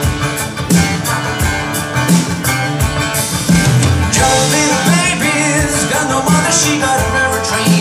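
Live band playing a rock song with drums and guitar at a steady beat, with singing coming in about halfway through.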